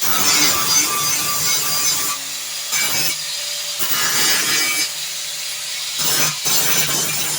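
Angle grinder cleaning the edge of a steel sheet for welding: loud grinding in several passes, with the tool briefly running lighter between them.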